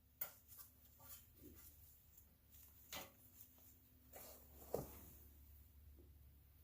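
Near silence: a few faint clicks and light taps of hand tools on metal parts, the sharpest right at the start and near five seconds in, over a faint steady hum.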